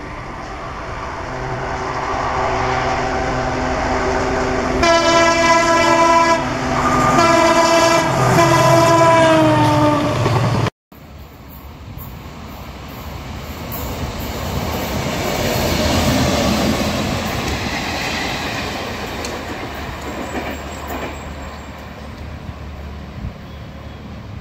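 Diesel locomotive hauling a passenger train approaches with its engine running and sounds several long horn blasts; the last blast slides down in pitch as the locomotive passes. After a sudden cut, a train passes on the track with a rumble and clickety-clack of wheels that swells and then slowly fades away.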